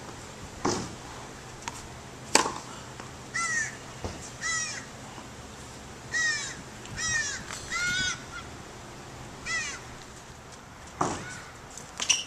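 A bird calling six times in short calls, from about three to ten seconds in. A few sharp knocks of tennis balls are heard, the loudest about two seconds in.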